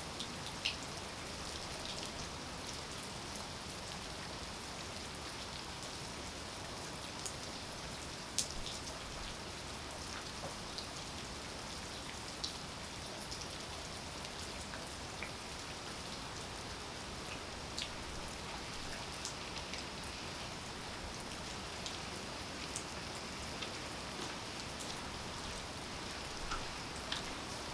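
Steady rainfall, with individual raindrops ticking sharply on nearby surfaces now and then over the even hiss.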